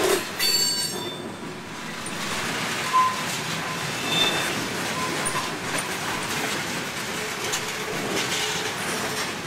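Railroad cars passing close by: a steady rumble and rattle of wheels on the rails, with a few short high-pitched squeals about three to five seconds in.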